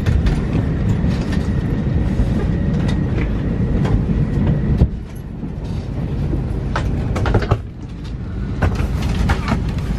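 Airliner cabin noise on an Airbus A321neo: a steady low rumble with scattered clicks and rattles, dipping briefly about halfway through and again near the end.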